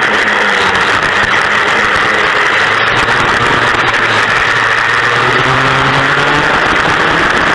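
Vintage dual-engine racing kart's two-stroke engines running hard at race speed, their pitch climbing in the second half as the kart accelerates.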